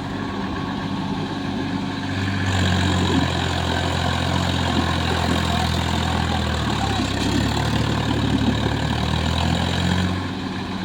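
Swaraj tractor's diesel engine running steadily while pulling a fully loaded trolley, getting louder about two seconds in and easing off near the end.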